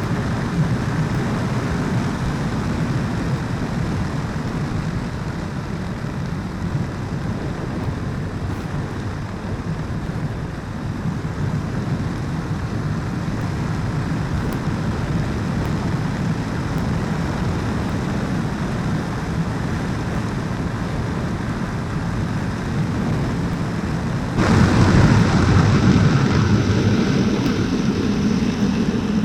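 Motorcycle riding at speed: engine running under a steady rumble of wind buffeting the microphone. About three-quarters of the way through the noise suddenly gets louder and stays louder.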